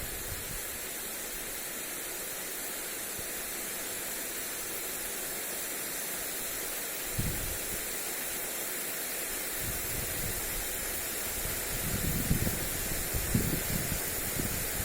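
Lawn sprinkler spraying water onto grass, a steady hiss. Wind gusts rumble on the microphone once about seven seconds in and repeatedly in the last few seconds.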